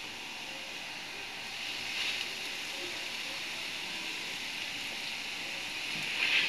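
Bread rolls frying in shallow hot oil in a frying pan: a steady sizzling hiss that swells briefly about two seconds in and again near the end as further rolls are laid into the oil.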